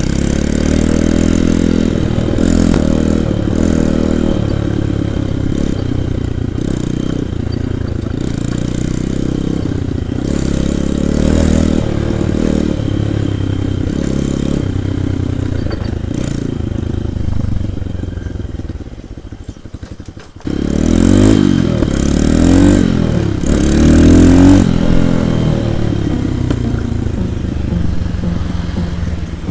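Single-cylinder four-stroke pit bike engine running under way, its pitch rising and falling as it revs up and down. Past the middle it drops away briefly, then comes back suddenly and louder with hard revving.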